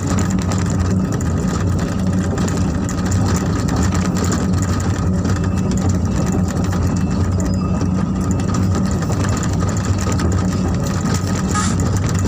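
Sumitomo SH250 excavator's diesel engine running steadily at a constant speed, a low hum.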